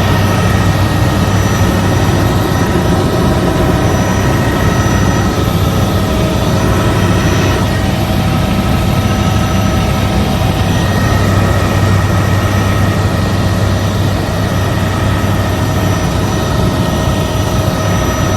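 Helicopter in flight, heard from inside the cabin: a loud, steady drone with a deep hum and several steady whining tones above it.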